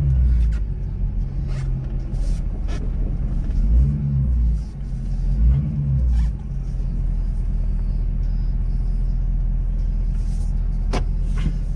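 Ford 6.7 Power Stroke V8 turbodiesel pickup running under light load in four-wheel drive, a steady low engine rumble, with a few sharp clicks or knocks scattered through, one standing out near the end.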